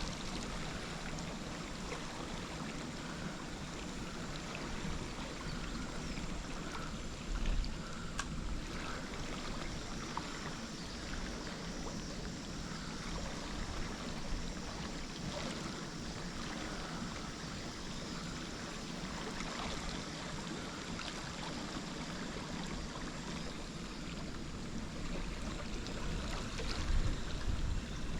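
Steady rush of flowing river water in a current below a dam, with two brief low bumps, about seven seconds in and near the end.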